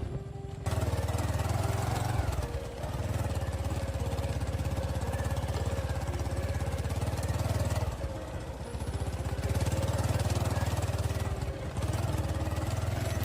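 Small motorcycle engine running under load on a muddy, rutted track, revving up and easing off a few times.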